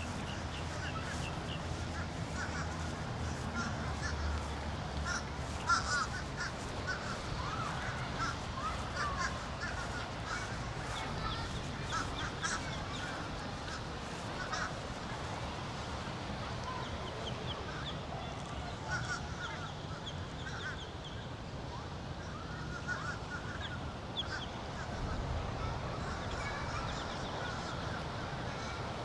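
Birds calling and chattering outdoors, with many short chirps and caws overlapping throughout, over a low steady hum in the first few seconds.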